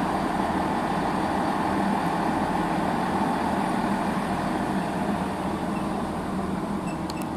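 Underfloor diesel engines of a standing GWR Networker Turbo (Class 165/166) diesel multiple unit idling steadily, mixed with the running of a Class 387 electric multiple unit pulling slowly into the platform. The sound eases slightly in the second half.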